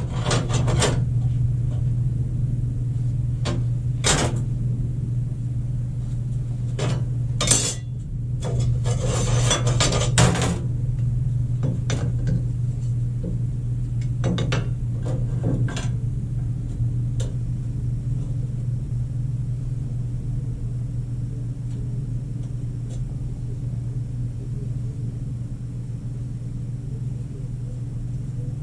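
Metal clanks, clinks and knocks as parts and tools are handled, with a busier rustling stretch about nine seconds in, then fewer knocks over a steady low hum.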